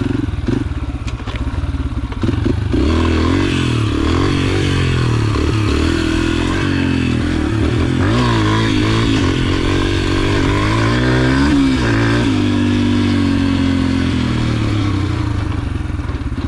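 Yamaha TT-R125's single-cylinder four-stroke engine revving under load while riding, its pitch rising and falling again and again with throttle and gear changes. It gets louder about two and a half seconds in.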